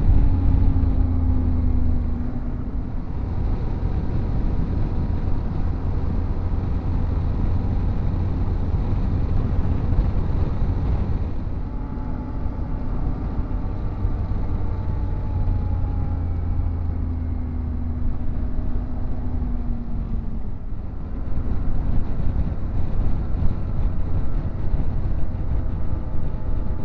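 Yamaha Ténéré 700's parallel-twin engine running under way with wind and road noise. The engine pitch eases down slowly a couple of times as the bike slows.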